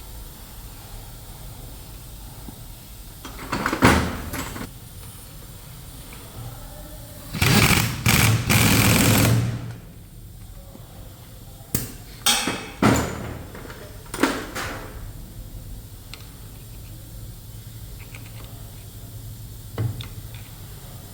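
Engine assembly-line workshop: a steady machinery hum broken by short bursts of hiss and clatter from hand and air tools. The longest hiss runs about two seconds near the middle, and a cluster of shorter bursts follows a few seconds later.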